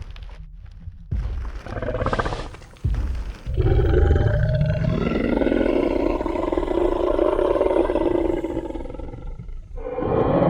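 Designed Tyrannosaurus rex sound effect: two heavy low thuds, then one long deep roar lasting about six seconds that cuts off shortly before a new roar begins near the end.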